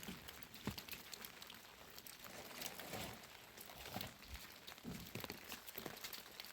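Faint scattered clicks, taps and rustling, with a few dull knocks.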